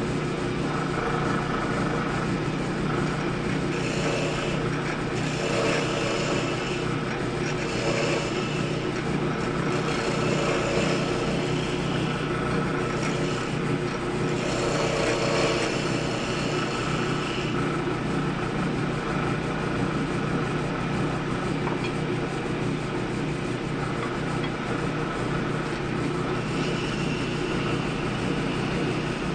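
Wood lathe running steadily with a constant motor hum, with bursts of rubbing against the spinning wood during the first half.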